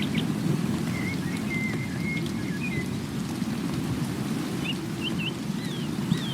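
Steady low rushing of water, with a songbird calling over it: a few short whistled notes about a second in, then quick rising and falling slurred whistles near the end.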